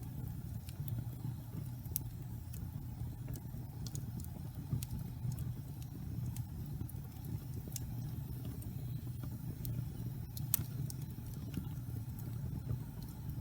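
Wood fire burning in a fireplace: a steady low rumble of flames with irregular crackles and pops from the burning logs, one louder pop about ten seconds in.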